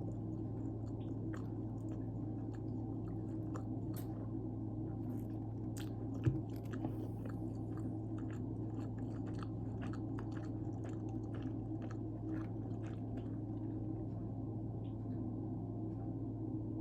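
Close-miked chewing of pizza, with many small wet mouth clicks over a steady low hum. A single sharp knock about six seconds in.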